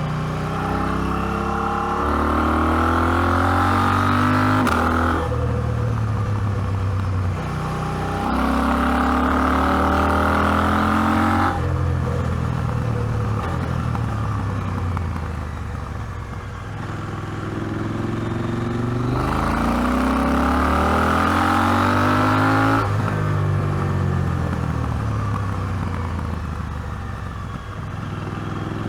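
KTM 790 Adventure's parallel-twin engine under way, the revs rising in several long surges of acceleration, each cut off sharply. Between them are long stretches of falling revs as the throttle is rolled off.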